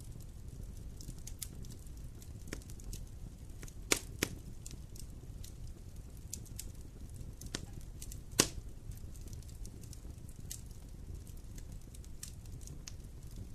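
Wood campfire burning: irregular crackles and snaps over a steady low rumble of flame, with three sharper pops about four seconds in, just after, and about eight seconds in.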